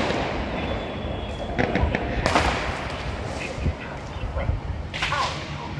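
Fireworks going off at close range: a series of sharp bangs and cracks over a continuous crackling haze, with the loudest bangs about two seconds and about five seconds in.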